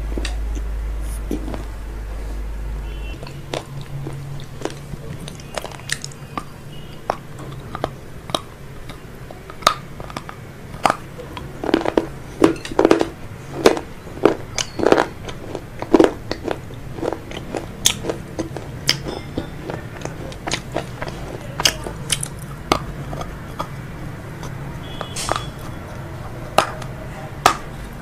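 Close-miked chewing and crunching of crispy fried food, with irregular crisp bites and crackles that come thickest in the middle and near the end. A low hum runs underneath and cuts off about three seconds in.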